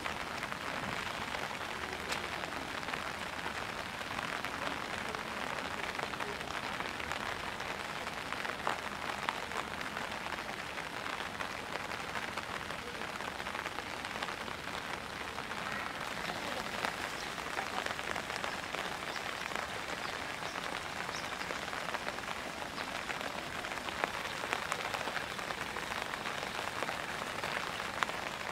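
Pouring rain falling steadily: a dense, even hiss with now and then the sharper tick of a single drop.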